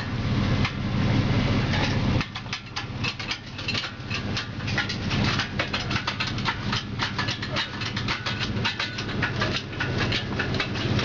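A jack being worked in quick strokes, a rapid run of sharp clicks several times a second starting about two seconds in, over a steady low engine hum.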